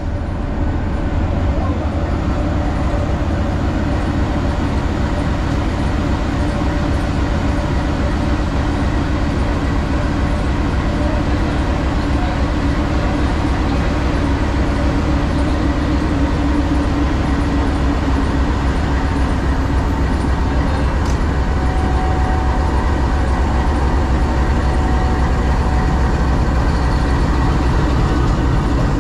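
Passenger train running with a steady low rumble that slowly grows a little louder.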